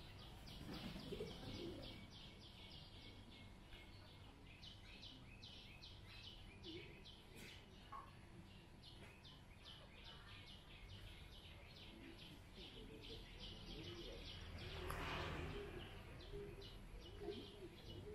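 A bird chirping over and over at a steady pace of about three high chirps a second, over a faint murmur of distant voices. About three-quarters of the way through, a brief swell of rushing noise rises and fades.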